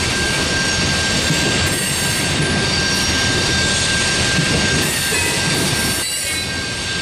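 Coal hopper cars rolling past: a steady rumble of steel wheels on rail, with a thin, steady high wheel squeal running over it.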